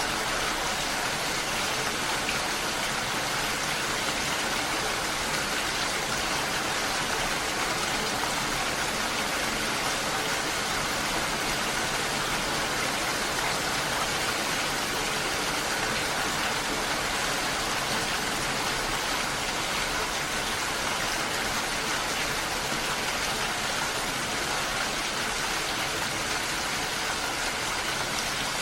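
Steady rushing of water, an even hiss with no single drops, splashes or other events standing out.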